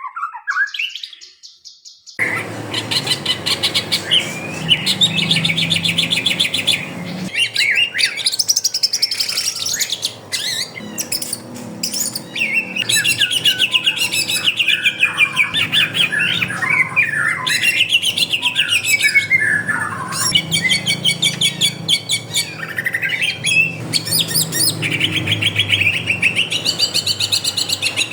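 Several caged songbirds chirping and singing at once, in rapid repeated trills and sweeping calls that come in fully about two seconds in.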